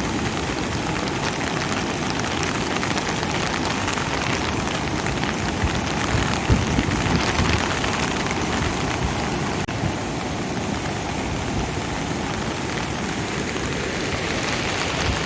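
Steady, dense rushing of water in typhoon conditions, with a few louder low rumbles about halfway through.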